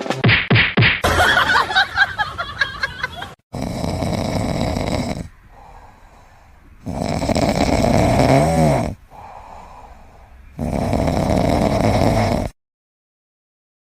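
A pet snoring: three long, loud snores with quieter out-breaths between them. Before them comes about three seconds of fast, rhythmic rattling sound.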